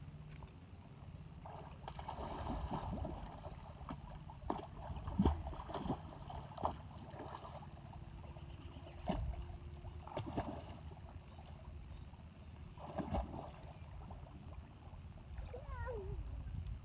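Brown, flood-swollen river water running steadily, with irregular sharp knocks and splashes scattered through. A faint call slides down in pitch near the end.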